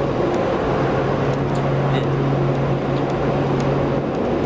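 Loud steady mechanical hum under a constant rushing noise, the background din of a cruise ship's deck, loud enough to drown out a voice.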